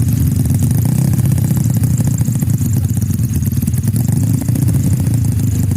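Motorcycle engine idling steadily, with a rapid, even firing beat and no revving.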